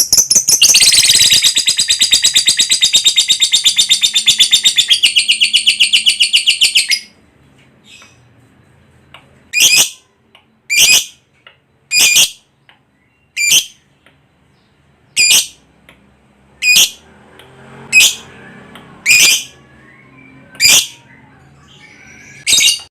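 Lovebird giving its long 'ngekek' call: a rapid, shrill chattering trill held for about seven seconds. It then gives about ten single sharp, high calls, one every second or so.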